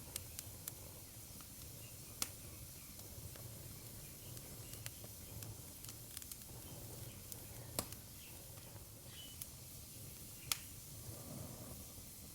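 Wood fire crackling in a fireplace: sharp pops and snaps at irregular intervals over a soft, steady hiss and low rumble of the flames. The loudest pops come a couple of seconds in, about two-thirds through and near the end.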